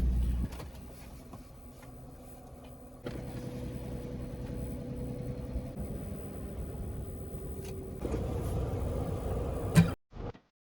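A van's engine and road noise heard from inside the cab, a steady low rumble that steps louder twice. A sharp click comes near the end, then the sound cuts off abruptly.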